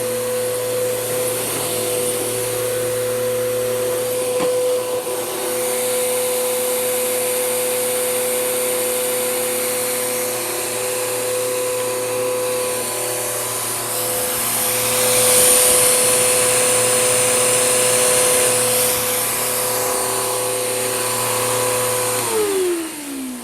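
Bissell PowerGroom Helix Rewind upright vacuum running steadily with a motor whine and a hiss of air, the hiss louder for a few seconds past the middle. Near the end it is switched off and the motor winds down, its pitch falling.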